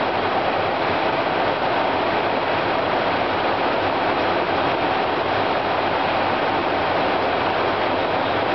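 Steady rushing noise of an airliner's flight deck at cruise at 36,000 feet, with a faint low hum underneath.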